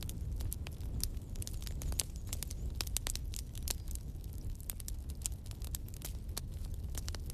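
Wood fire crackling: irregular sharp pops and snaps over a low steady rumble of the flames.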